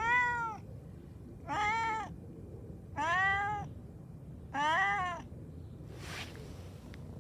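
A cat meowing four times in a row, one call about every second and a half.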